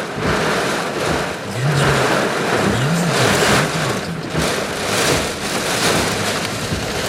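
Typhoon wind gusting hard in repeated surges, with a faint low moaning tone that rises and falls a few times in the middle.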